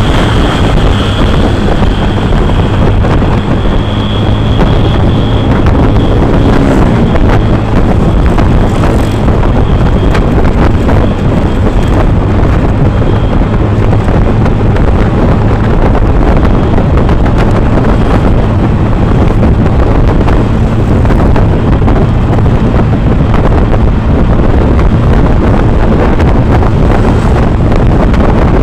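Loud steady wind buffeting the microphone over a steady low engine hum, as heard while riding on a road vehicle.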